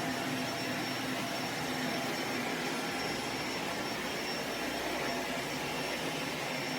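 Upright vacuum cleaner running steadily on its hardwood-floor mode, a lot quieter than on carpet, with a faint high whine over the airflow. It cuts off suddenly near the end.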